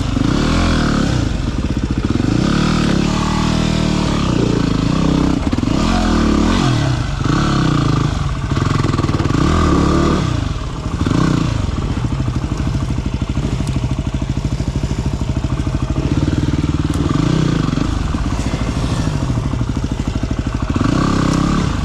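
Small single-cylinder four-stroke dirt bike engine under way on a trail ride, its revs rising and falling over and over as the throttle is worked, with a brief drop about eleven seconds in.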